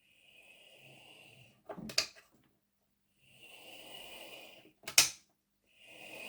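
Small electric motor and gear drive of a Heljan Class 23 OO gauge model locomotive whirring in three short runs, with sharp clicks in between. The runs test the motor after it has been re-centred in the chassis, and the result is judged better.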